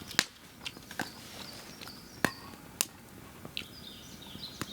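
Wood fire crackling, with sharp irregular pops every second or so.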